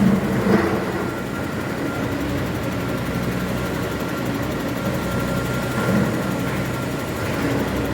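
Caterpillar 316 hydraulic excavator's diesel engine running steadily under work, with brief louder swells about half a second in and again around six seconds.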